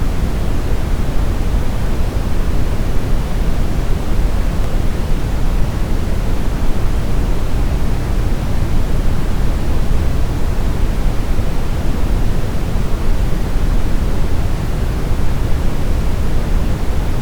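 Steady, smoothed brown noise: an even, deep rumbling hiss, heaviest in the bass and thinning toward the treble, with no changes or events.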